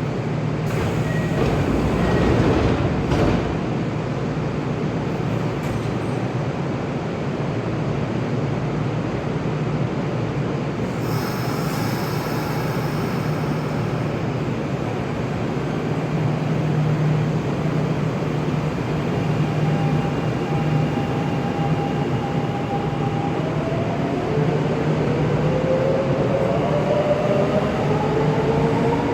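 Kintetsu electric train pulling away: a steady low running hum, a short hiss about halfway through, then, near the end, a whine from the traction motors that rises in pitch as the train gathers speed.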